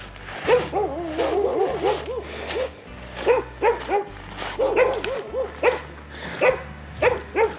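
Several dogs barking at a person, in quick runs of short barks that overlap one another.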